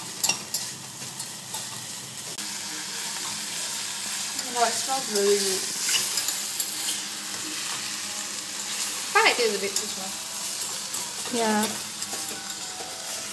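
Sliced chicken sausage and onion sizzling as they fry in a stainless steel saucepan, while a slotted metal turner stirs them and clicks and scrapes against the pot. A few short falling pitched sounds come through about five, nine and eleven seconds in.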